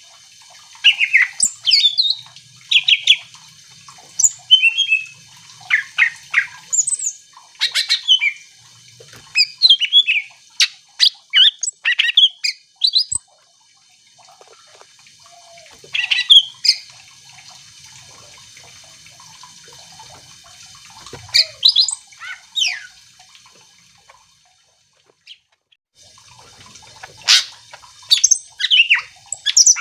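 Cucak ijo (green leafbird) singing in bursts of rapid, sharp chirps and quick rising and falling whistled notes, broken by pauses of a few seconds between phrases.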